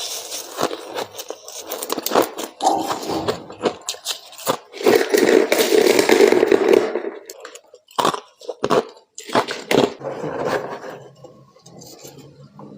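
Close-up crunching of humidifier freezer frost being bitten and chewed: a run of sharp crunches, densest and loudest about five to seven seconds in, then a few separate crunches.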